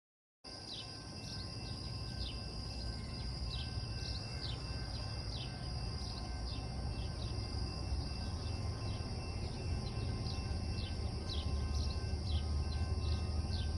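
Summer outdoor ambience that cuts in abruptly: a steady high insect drone with short, repeated descending chirps, over a low rumble that grows louder toward the end.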